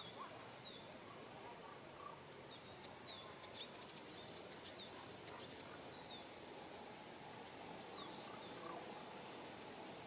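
Quiet outdoor ambience: a small bird repeats short, high, falling call notes every second or so over a soft steady hiss, with a brief burst of fine ticking about three seconds in.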